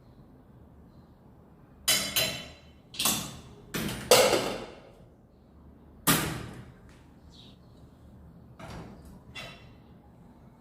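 A series of sharp knocks and bangs, each dying away briefly: six in quick succession, the loudest about four seconds in, then two fainter ones near the end.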